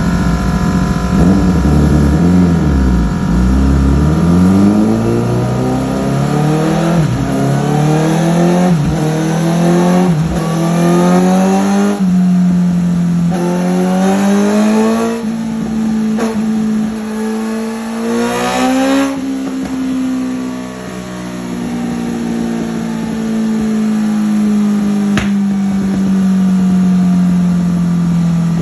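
Honda CBR1000RR inline-four engine through an M4 Street Slayer carbon fiber slip-on exhaust, revved repeatedly in rising sweeps. About two-thirds of the way in it settles into a steady idle whose pitch slowly drops.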